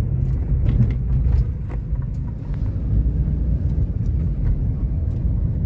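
Steady low road and engine rumble of a moving car, heard from inside the cabin, with a few faint clicks.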